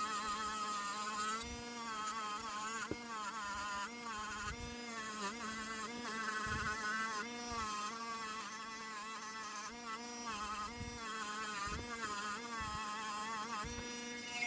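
Small rotary tool fitted with a brass wire brush, buzzing steadily while scrubbing a diecast metal casting, its pitch wavering up and down as the brush is pressed on and eased off; it stops at the very end.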